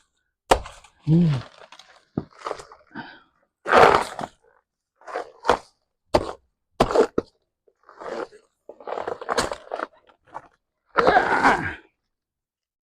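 Backyard debris being cleared by hand: a string of sudden cracks, crunches and knocks, separated by short pauses, with a man's brief grunt about a second in.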